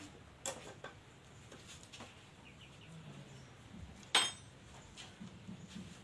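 A caged black-naped oriole moving on its perch: a few light clicks near the start and one short, sharp, loud sound about four seconds in. Faint low sounds run in the background.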